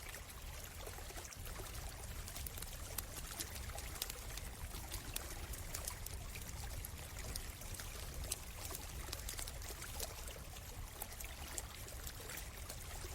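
A small stream trickling and splashing steadily, with frequent short pops and crackles from a burning campfire scattered throughout.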